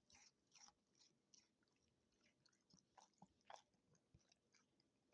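A dog faintly chewing and crunching snacks, irregular crisp bites, the loudest a little after the middle.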